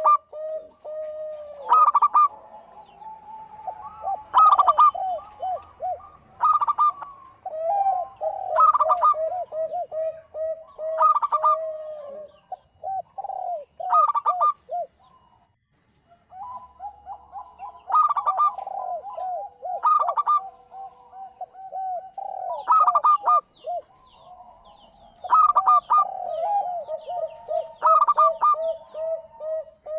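Zebra dove (perkutut) cooing: rapid runs of bubbling coos, punctuated about every two seconds by a louder, higher note, with a short break about halfway through.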